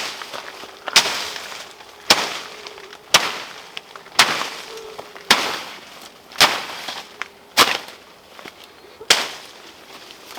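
A series of sharp strikes, about one a second, each followed by a short fading rustle.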